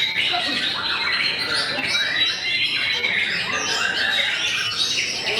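White-rumped shama (murai batu) singing, a dense, unbroken stream of short, quickly changing notes with no pause.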